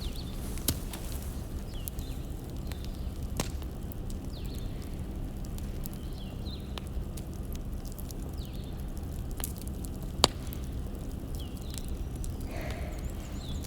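Wood fire crackling, with scattered sharp pops over a steady low rumble; the loudest pop comes about ten seconds in.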